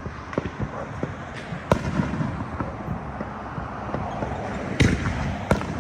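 Fireworks going off all around: a continuous crackle of many small pops, with several louder bangs, one about two seconds in and a few more near the end.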